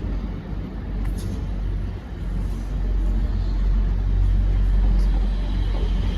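A train pulling out of a platform: a steady low rumble that grows louder about halfway through.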